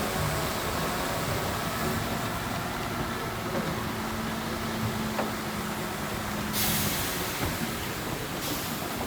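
Diesel engine of heavy earthmoving machinery running, with a steady hum over a dense rumble and two short hisses, one about six and a half seconds in and one near the end.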